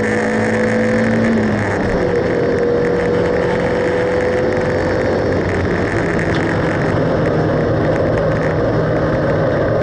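Mazda Roadster (NA8C) 1.8-litre four-cylinder engine running hard at lap pace, heard from inside the cabin with road and wind noise. Its pitch changes about two seconds in and again around six seconds in.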